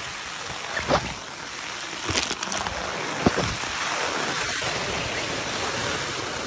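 Rain falling on a tent's fabric, heard from inside the tent: a steady hiss, with a few louder single drops striking the fabric in the first half.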